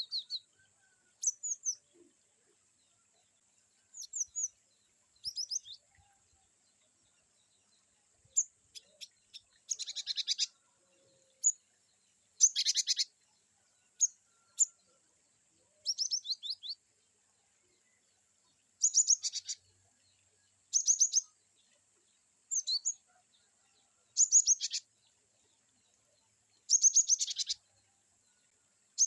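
Cinereous tit (glatik batu) calling in varied "wucit" phrases: short bursts of quick, high-pitched chirping notes repeated every one to three seconds, some thin and sharp, others denser and buzzier.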